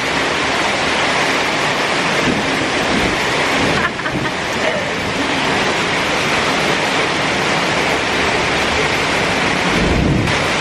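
Heavy tropical rain pouring down steadily, with a low rumble near the end.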